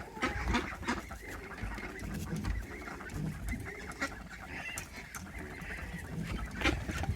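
Backyard chickens clucking, a run of short irregular calls.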